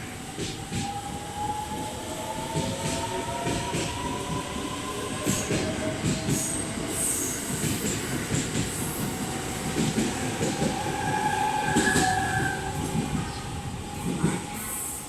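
JR 681 series electric train pulling away on departure: its motor whine rises in pitch over the first few seconds as it gathers speed, with wheels knocking over rail joints and points. A wheel squeal comes about ten seconds in.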